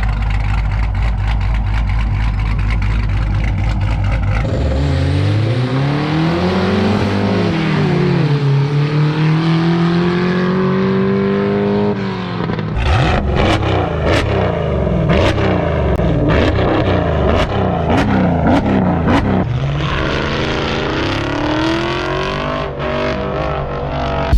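Cammed Jeep Grand Cherokee SRT's 6.4-litre 392 Hemi V8 idling, then revved up and down several times. A choppy stretch of quick revs with sharp cracks runs from about halfway through, and more rising and falling revs come near the end.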